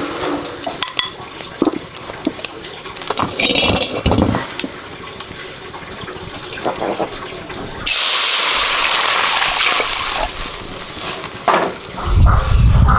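Scattered knocks and clatter, then about eight seconds in a sudden gush of water lasting about two and a half seconds. A low rumble starts near the end.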